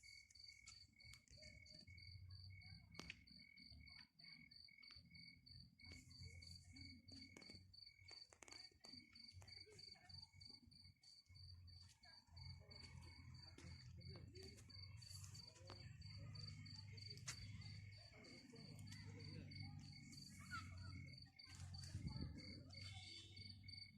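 Crickets trilling steadily, one continuous high-pitched chirr pulsing rapidly and evenly, over a faint low rumble and scattered light ticks.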